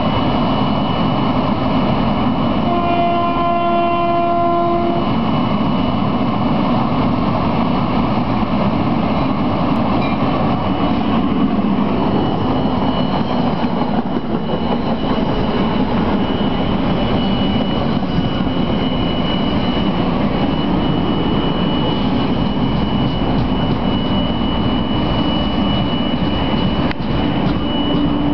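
NJ Transit commuter train, an ALP-46 electric locomotive with Comet V coaches, rolling past and slowing into a station with a steady rumble of wheels on rail. A train horn sounds once for about two seconds, around three seconds in. A thin, steady high whine runs through the second half.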